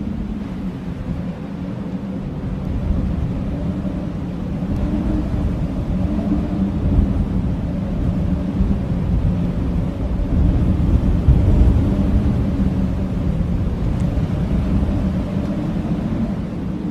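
Blizzard wind howling: a steady low rush with faint drawn-out howling tones in it, swelling a little past the middle.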